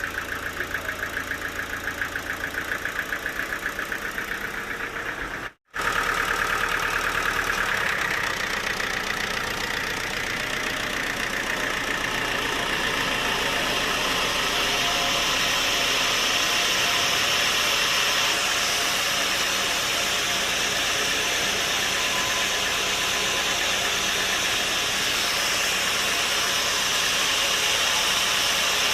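Sawmill machinery running steadily with an engine-like drone. The sound cuts out abruptly for an instant about five and a half seconds in, then resumes, with a hissing noise in the upper range building from about ten seconds on.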